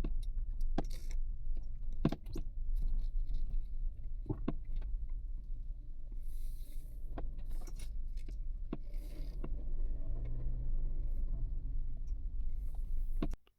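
Inside a moving car: a steady low road and engine rumble with repeated sharp clicks and rattles from something loose in the cabin.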